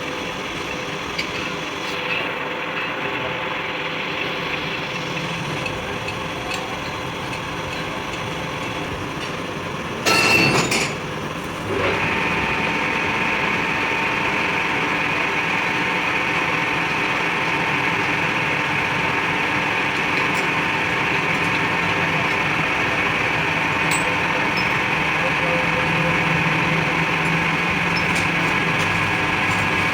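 A workshop machine running steadily, with a brief louder burst of noise about ten seconds in; after it, the running sound is a little louder and steadier.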